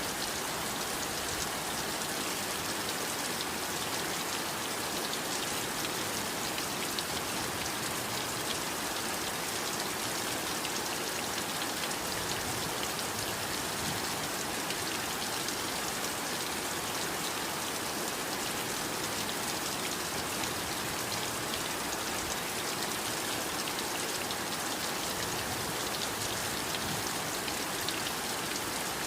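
Steady heavy rain falling, an even hiss of rainfall with fine droplet patter throughout.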